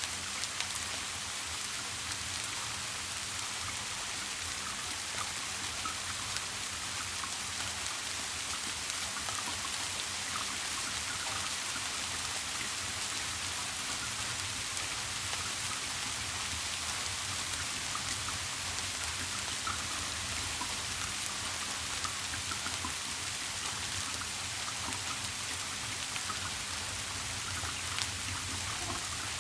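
Steady rain falling, with many small separate drops hitting a surface, over a steady low hum.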